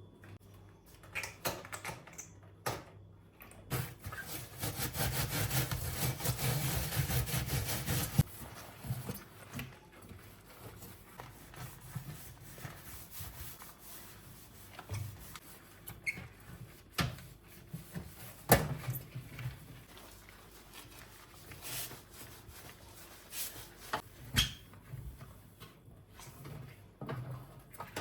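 Household cleaning and handling sounds: steady rubbing for about four seconds starting about four seconds in, then scattered light knocks and clicks of objects, cupboard doors and surfaces being handled.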